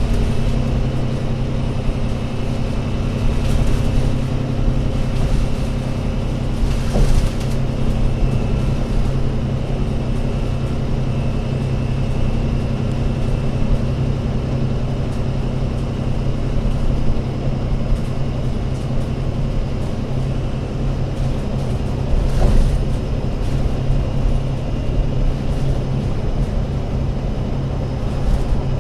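Diesel engine of an Alexander Dennis Enviro500 MMC double-decker bus running at steady revs, a continuous low drone, with brief knocks or rattles about seven seconds in and again near twenty-two seconds.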